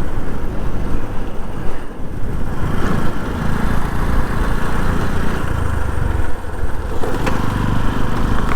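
Bajaj 125 cc single-cylinder motorcycle running at riding speed, its engine mixed with a heavy, unsteady rumble of wind on the mic.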